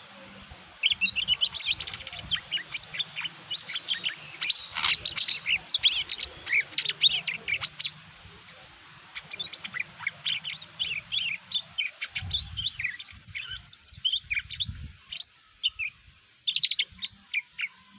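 Cucak ijo (green leafbird) singing a fast, varied run of chirps and whistled notes, in two long bursts with a short pause between them, a few low thumps under the second burst.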